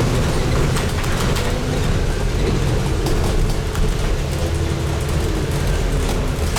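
Scania N250UD double-decker bus on the move, heard from inside: a steady low engine and road rumble with a faint whine that rises and falls a little, and light rattles through the cabin.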